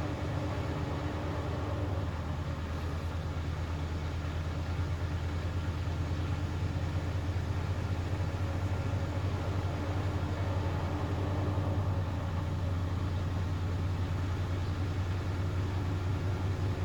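Hoover Axi 9 kg washing machine running with a steady low hum and a fast flutter, growing slightly louder near the end.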